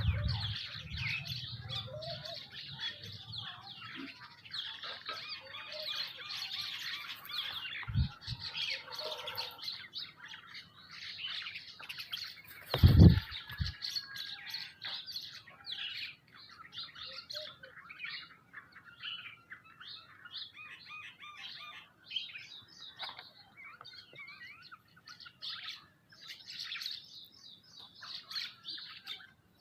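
Many birds chirping and twittering at once, busiest in the first ten seconds and thinning out later. Two short low thumps break in, about 8 and 13 seconds in, the second the loudest sound.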